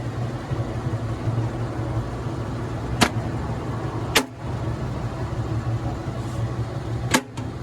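Three sharp cracks, a little over a second and then about three seconds apart, over a steady low hum of a running vehicle engine. Right afterwards they are called gunshots ('balazos').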